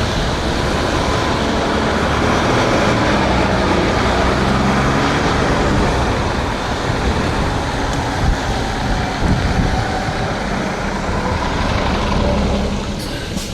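Ride noise from an electric scooter on a wet road: wind rushing over the helmet microphone and tyres hissing through the wet, with vehicle noise mixed in. It dies down near the end.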